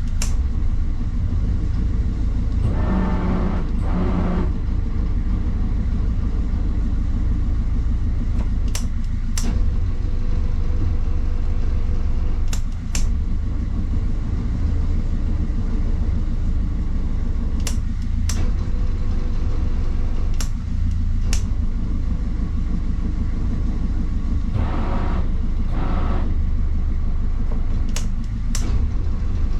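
Hire motor cruiser's inboard diesel engine running steadily under way, a constant low rumble. A few sharp clicks come in pairs, and there are two brief rushes of noise, one a few seconds in and one near the end.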